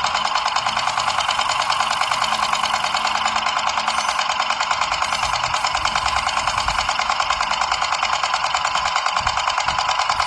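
Small electric motor of a DIY miniature machine running steadily, with a rapid, even rattling pulse from its drive.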